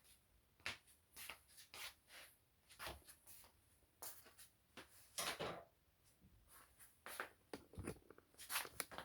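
Faint, irregular small clicks and knocks, about a dozen scattered through the stretch, with a slightly louder knock about five seconds in: household handling noises.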